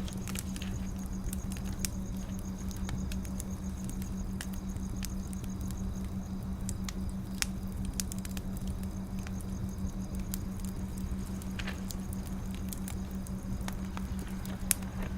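Wood fire crackling: irregular small pops and snaps over a steady low hum, with a sharper pop about halfway through and another just before the end.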